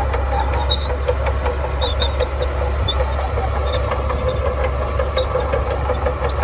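Shantui bulldozer's diesel engine running steadily: a deep, even rumble with a fast light rattle of small ticks over it.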